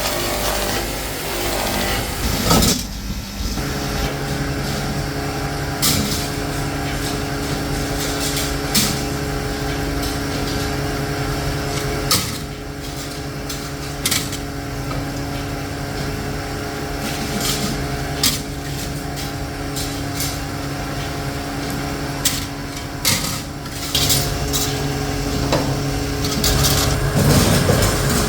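Factory machinery running with a steady electric-motor hum, broken by occasional sharp knocks and clacks.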